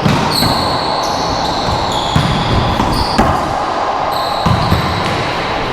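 Racquetball rally on an enclosed court: a hollow rubber ball smacked by racquets and bouncing off the walls and floor. Five sharp hits, irregularly spaced over the few seconds, two of them close together near the end, over a steady high-pitched whine that jumps in pitch in steps.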